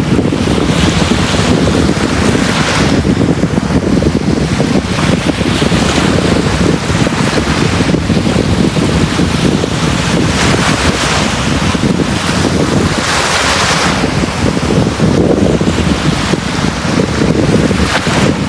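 Sea waves breaking and washing up a beach: a steady low rumble of surf, with the hiss of several waves swelling and fading every few seconds, the strongest about thirteen seconds in.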